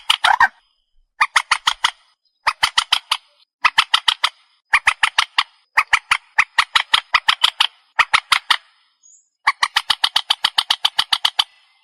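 Trích ré bird calling: rapid runs of harsh, sharply repeated notes, six to ten per run, in bursts about a second long with short pauses between. It is a recorded call played as a lure for trapping.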